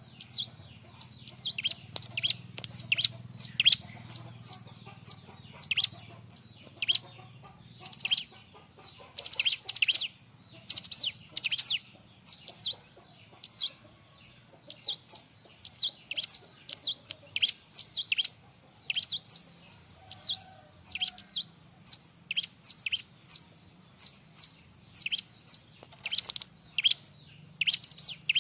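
Bar-winged prinia (ciblek) singing in a lively, continuous run of short, sharp, high chirps, each a quick downward sweep, several a second, with a louder, busier stretch about eight to twelve seconds in. A faint steady low hum lies underneath.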